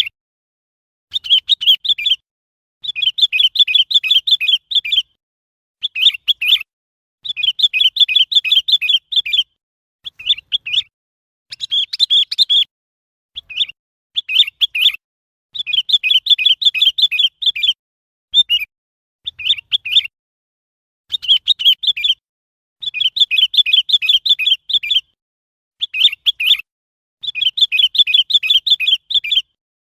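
Sooty-headed bulbul calling: runs of rapid chirping notes, short ones alternating with longer ones lasting about two seconds, each followed by a brief pause, repeating throughout.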